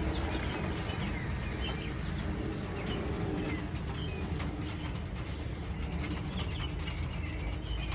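Outdoor birds calling, with short scattered chirps over a steady low rumble.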